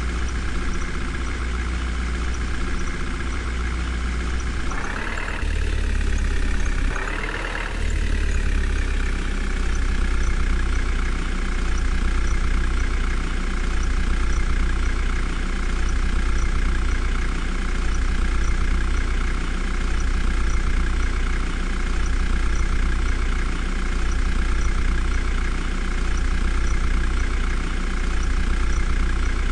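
Vehicle engine idling steadily, revved up briefly twice, about five and seven seconds in, then settling back to idle.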